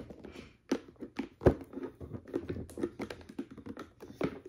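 Hands working at a boxed perfume bottle's packaging to get it open, making irregular clicks and taps. A sharper knock comes about a second and a half in.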